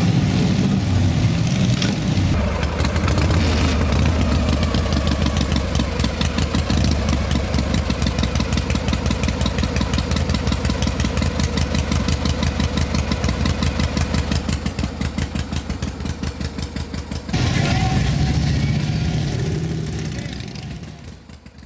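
Motorcycle engine idling with a fast, even pulse. About seventeen seconds in the sound changes abruptly, then fades near the end.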